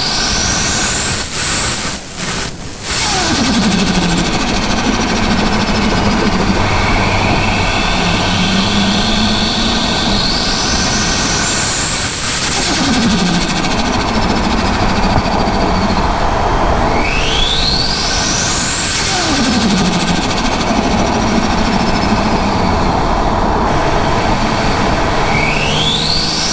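Turbocharged Ford Barra 4.0 L inline-six engine, tuned to about 600 hp, revved four times. Each time the turbo spools with a rising whistle that climbs high. As the throttle closes the revs fall away and the turbo flutters, a rapid chatter that is plainest after the first rev.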